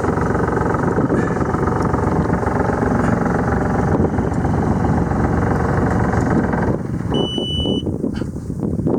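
A sailing yacht's auxiliary inboard engine running steadily, then shut down; it cuts out suddenly about seven seconds in. Just after it stops comes one short, steady high beep, typical of the engine panel's warning buzzer as the engine dies.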